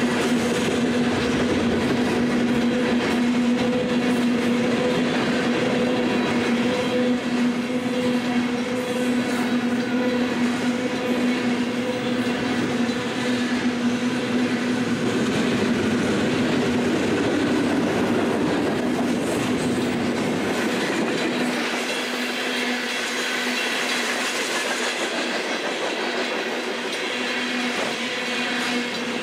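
Freight train cars rolling past, wheels clattering over the rails, with a steady hum. The low rumble drops away about three-quarters of the way through as the train moves off.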